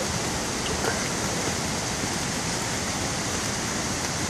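Heavy rain and running rainwater making a steady, even hiss.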